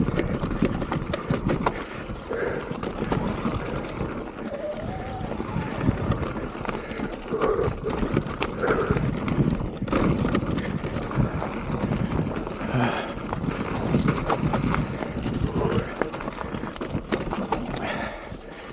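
Mountain bike ridden fast down a wet, rooty trail: a steady rush of tyre and wind noise, broken by frequent sharp rattles and knocks as the bike goes over roots.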